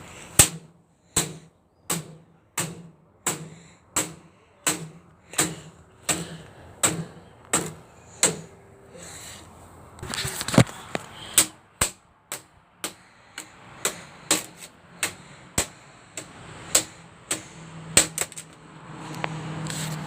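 A box fan being smashed: sharp, evenly paced blows, a little faster than one a second, with a short break around nine to ten seconds in. A low hum builds near the end.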